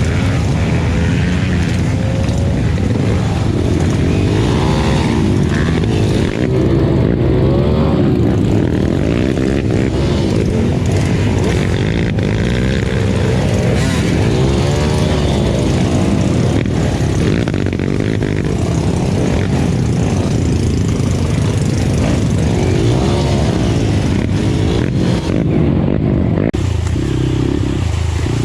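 Enduro dirt bike engine running hard, its revs rising and falling over and over.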